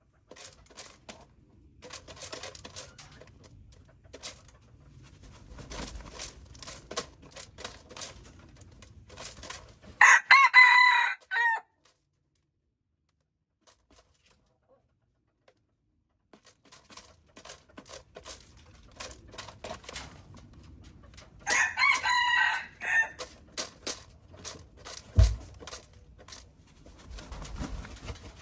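Rooster crowing twice, once about ten seconds in and again about twenty-two seconds in, each crow lasting under two seconds. Scattered clicks run underneath, with a single low thump a few seconds after the second crow.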